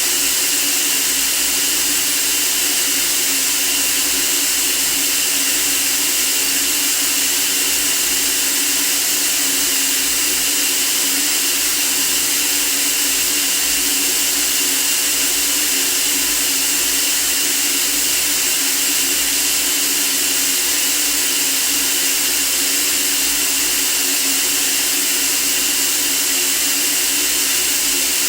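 Steady, unchanging white-noise hiss, brightest in the treble.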